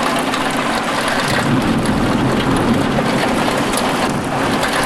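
Heavy thunderstorm rain pouring steadily, with a low rumble of thunder underneath.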